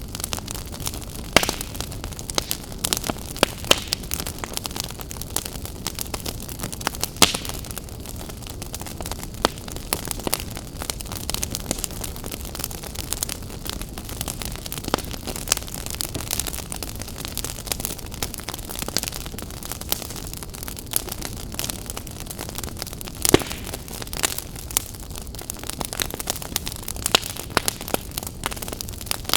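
Wood fire burning in an open fireplace, crackling, with frequent sharp pops over a steady low rush of flame.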